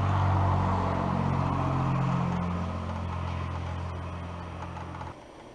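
Quadractor's 8 hp small engine running, its pitch shifting a couple of seconds in, then stopping abruptly about five seconds in.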